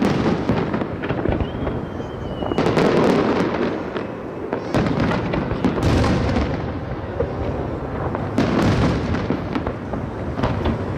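Aerial fireworks shells bursting in quick succession, with deep booms overlapping sharp cracks and crackle. The barrage swells in louder clusters every few seconds.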